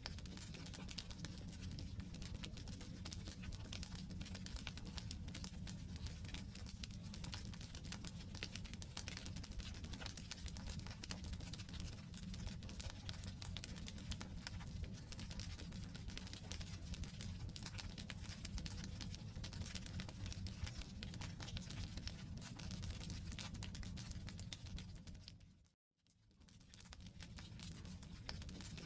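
Campfire logs burning, with dense small crackles and pops over a low rumble. About three-quarters of the way through, the sound drops to silence for a moment and then fades back in.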